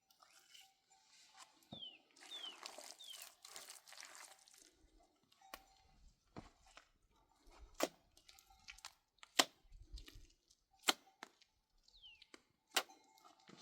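A series of sharp, irregular knocks or cracks, about six of them in the second half. A few seconds in there is a short scraping rustle, and brief high falling chirps come and go.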